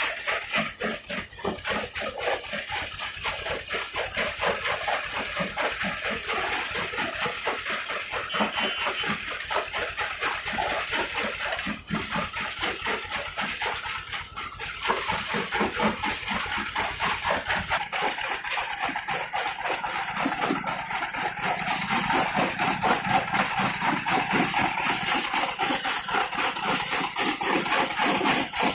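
Brick-breaking machine running, with a continuous dense clatter of rapid knocks and rattles as bricks are broken and the pieces tumble. The low rumble underneath drops away about two-thirds of the way through while the clatter goes on.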